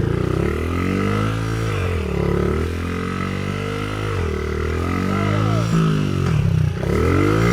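Small single-cylinder pitbike engine running hard, its pitch dipping and rising in waves about every two seconds as the throttle goes off and on.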